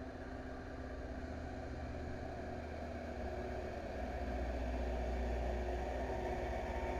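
A heavy engine running with a steady low hum and several held tones, growing louder from about four seconds in.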